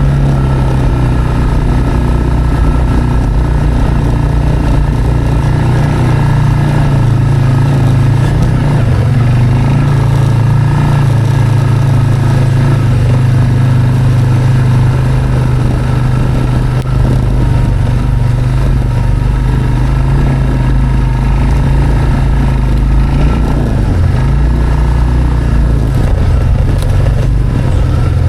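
Small gasoline engine of a Mechmaxx portable sawmill running steadily at a constant speed.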